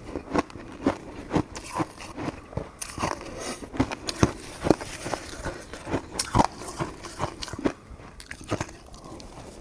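Close-miked chewing of coconut-coated sticky rice cake: a steady run of short, irregular mouth clicks and smacks, about two a second.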